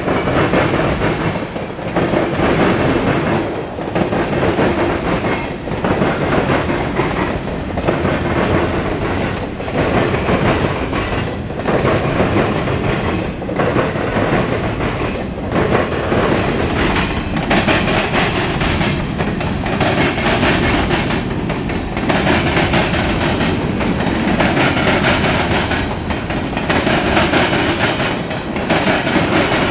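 Freight train passing close by: steel wheels clattering on the rails and cars rumbling, swelling and easing about every two seconds as each car goes by. A faint steady whine joins about halfway through.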